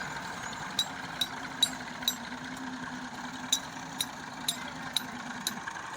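Massey Ferguson 240 tractor's diesel engine running steadily, with a series of sharp clicks about twice a second in two short runs.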